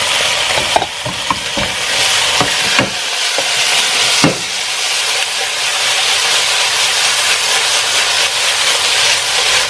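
Fried chicken pieces, onion and garlic sizzling loudly in hot oil while being stir-fried, with a few sharp knocks and scrapes of the utensil against the pan in the first few seconds.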